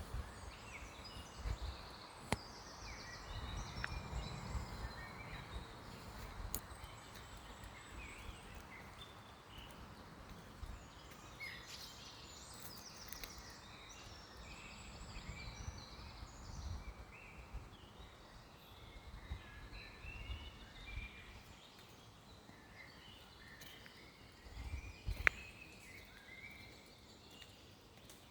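Several birds chirping and calling over one another, with short varied notes throughout. Under them runs an uneven low rumble, with a few sharp clicks; the loudest click comes near the end.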